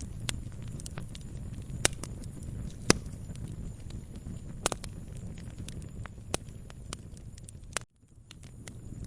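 Wood fire burning in a fireplace: a steady low rumble of flames with irregular sharp crackles and pops, the loudest two about two and three seconds in. Near the end the sound cuts out abruptly for a moment and fades back up.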